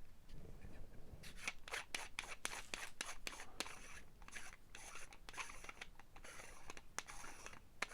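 Handling noise from a cigar travel humidor being turned over and worked open: a string of short, faint rubs and scrapes, starting about a second in.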